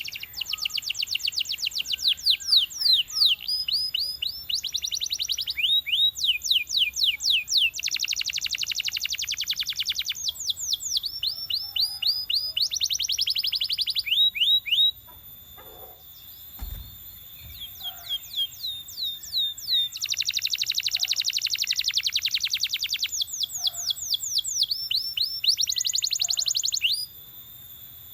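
Belgian canary singing in long phrases of rapid repeated notes and fast trills, with a break of about two seconds halfway through, during which there is a single soft low thud, before the song resumes.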